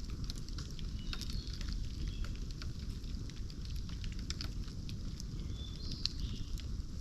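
Bonfire of cut bamboo burning, with a steady low rumble under frequent small crackles and pops, and a few brief high hisses.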